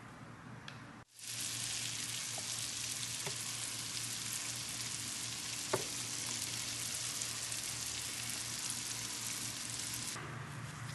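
Food frying in a hot pan: a steady sizzle with scattered crackles. It starts abruptly about a second in, has one sharper click midway and drops back near the end.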